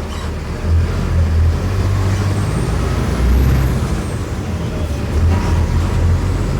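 Mercedes-Benz OF-1418 bus's OM-904LA four-cylinder turbodiesel running, its low engine note rising and falling. A faint high whistle rises and then falls in the middle.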